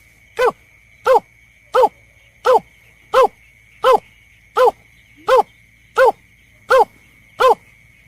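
Berkik (belkek) bird lure call played back: a short, sharp note repeated evenly about one and a half times a second, each note bending down in pitch. A faint steady high tone runs underneath.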